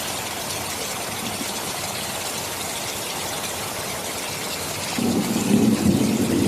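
Steady rain hiss. About five seconds in, a louder low rumble of thunder rolls in under it.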